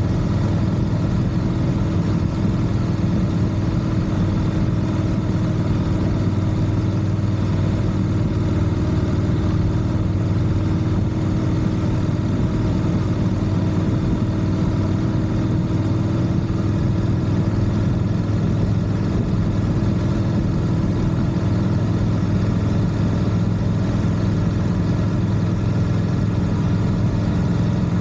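A vehicle engine running steadily at an even pitch and level, with no revving.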